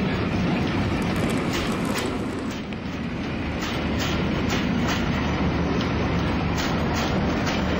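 O gauge model train running along the track, a steady rumble with sharp clicks coming a few times a second as the wheels pass over the rail joints.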